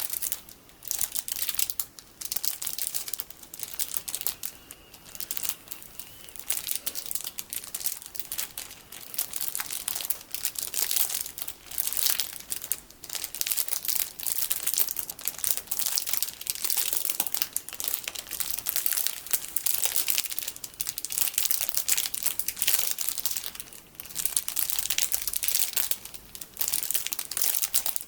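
Plastic packaging full of small colourful sticky beads being crinkled by hand, a dense crackle in bursts with short pauses between them.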